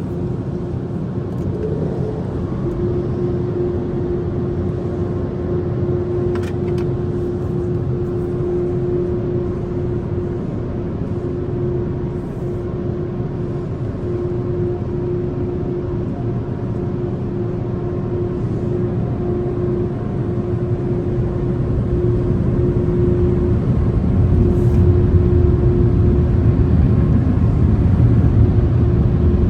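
Touchless car wash machinery running: a steady low rumble with a constant hum, growing louder over the last several seconds.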